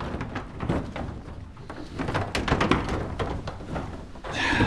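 Knocks and rustling as nervous sheep and newborn lambs shift about in a pen, with a short pitched call, likely a bleat, near the end.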